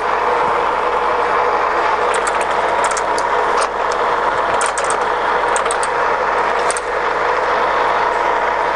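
Scott 6250L centre lathe running under power, a steady mechanical gear noise from its headstock and feed drive, with several short sharp clicks in the middle stretch.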